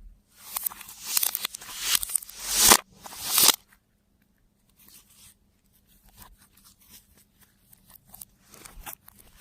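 Slime being squished and stretched by hand: a few loud crackling, tearing pulls in the first few seconds, then quieter scattered clicks and pops.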